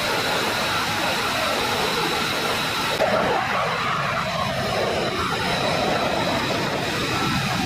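Jet aircraft engines running: a broad, steady rush with a high whine over it. The sound changes abruptly about three seconds in.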